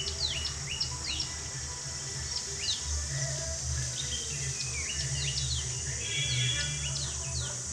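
Small birds chirping, a quick run of short calls that each drop sharply in pitch, repeated throughout, over a steady high hiss and a low rumble.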